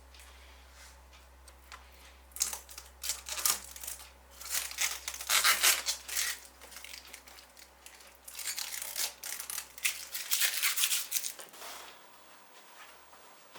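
Packaging being handled: plastic and paper crinkling and tearing in irregular bursts, loudest about halfway through and again near the end.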